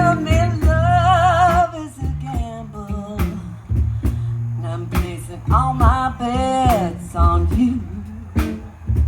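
Live blues band playing: a steady bass line under drum hits, with a lead line that wavers in pitch with strong vibrato, in two long phrases near the start and about halfway through.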